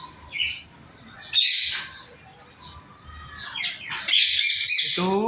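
Pet parrots squawking in harsh, high screeches: one burst about a second in, then a louder run of calls near the end.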